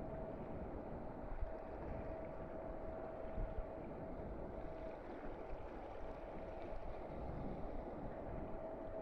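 Steady rumble and rush of a ship under way, with a constant hum running through it and a few faint knocks.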